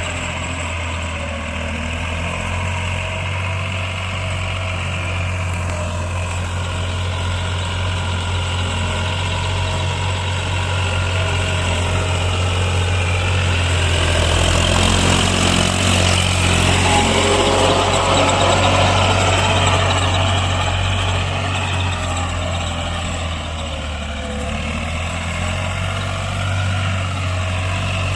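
Case JX55T tractor's diesel engine running steadily, swelling louder for several seconds around the middle before settling back.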